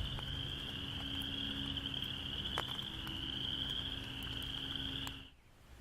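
A loud chorus of frogs calling together, a steady high-pitched trill that cuts off suddenly near the end.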